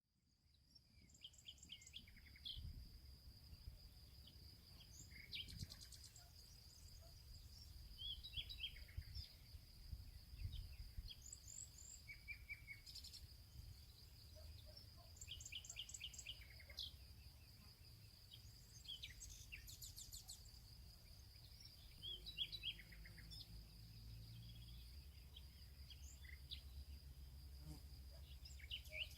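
Faint birdsong: small birds chirping in short quick runs every second or two, over a steady high thin whine and a low rumble.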